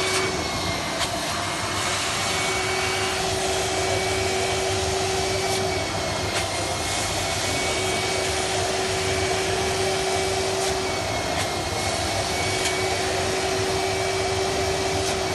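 GAMMA 300 washing vacuum (carpet extractor) running steadily, a constant suction-motor noise. A second steady hum switches on and off every few seconds, in stretches of about three to four seconds.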